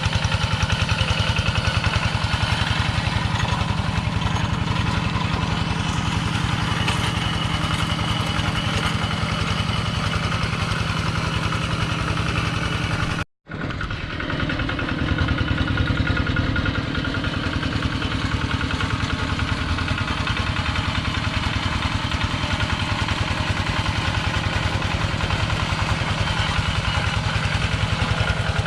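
Engine of a Kubota two-wheel tractor running steadily at a constant speed, with a sudden silent gap of about half a second partway through before the same running resumes.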